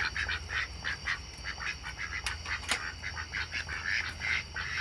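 Domestic ducks quacking in quick, short calls, several a second, with two sharp clicks about halfway through.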